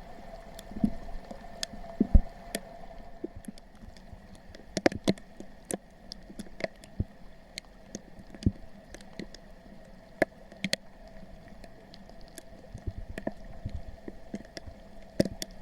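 Wading through shallow, wet stream ground: scattered squelches, small splashes and drips, with a faint steady hum underneath.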